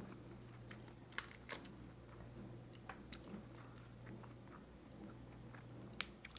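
Close-miked chewing of a bulgogi beef and lettuce wrap: soft mouth clicks and crunches, with a few sharper ones about a second in and near the end, over a low steady hum.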